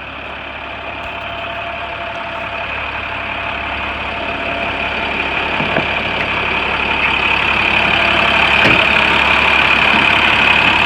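Diesel engine of a 2011 International 4400 truck idling steadily, growing gradually louder.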